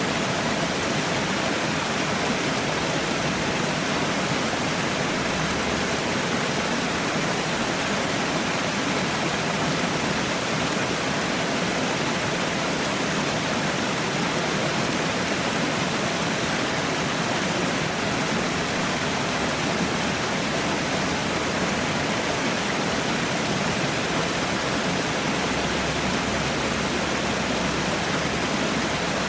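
Falling water pouring steadily without a break, like a small waterfall.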